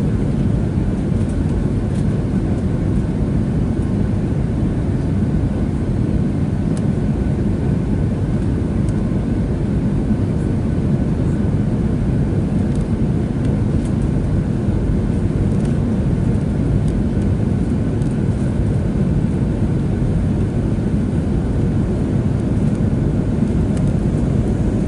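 Steady cabin noise inside a Boeing 737-700, its CFM56 engines and airflow making an even low rumble with a faint steady whine above it, as the airliner moves on the ground after landing.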